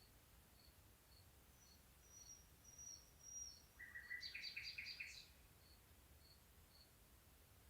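Night-time bird and insect chorus: a high insect note ticks steadily about twice a second, while a bird gives three thin high whistles and then, about four seconds in, a short rapid chattering phrase that rises in pitch.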